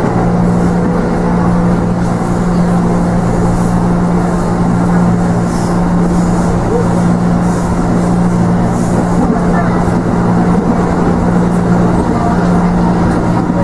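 Steady running noise inside a passenger train carriage: a constant low hum over a dense rumble, unbroken throughout.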